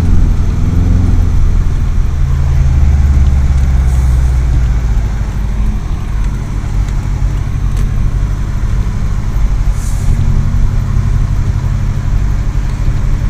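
Subaru WRX STI's turbocharged flat-four engine and tyre noise heard from inside the cabin while driving, a steady low drone that is loudest for the first five seconds or so and then settles.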